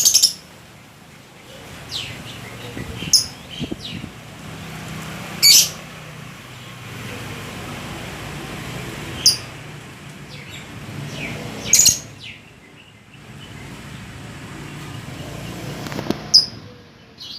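Lovebird giving short, shrill chirps, about seven scattered calls a few seconds apart, over a low steady background rumble.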